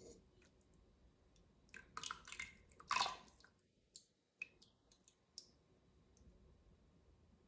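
Faint handling sounds: a quick cluster of clicks and scrapes about two to three seconds in, then a few isolated light ticks.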